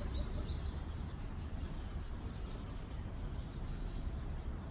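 Outdoor background: a steady low rumble with faint, short bird chirps.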